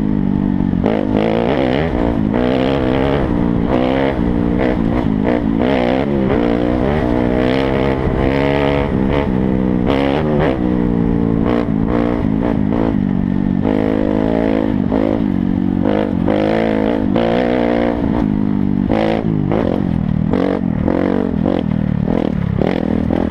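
Dirt bike engine running under constant throttle changes as it is ridden, its pitch rising and falling every second or two.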